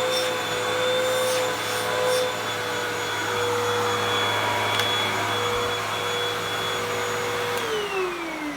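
Hoover WindTunnel 2 Rewind upright vacuum cleaner running with a steady motor whine, then switched off near the end, its motor whine falling in pitch as it spins down. It runs normally, apart from a bad smell.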